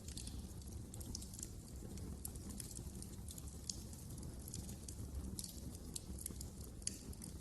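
Wood fire crackling in a fireplace: irregular sharp pops and snaps over a low, steady rumble of the flames, with one louder pop a little before the end.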